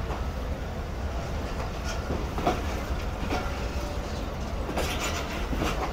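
Passenger train running along the platform as it arrives: a steady low rumble with a few sharp clacks of the wheels over rail joints.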